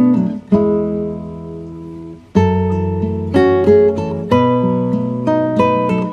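Music: an acoustic guitar playing slow chords, each struck and left to ring.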